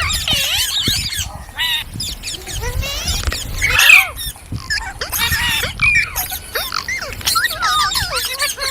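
Indian ringneck parakeet vocalising in a rapid run of whistles, squawks and warbling notes, with a louder squawk about four seconds in.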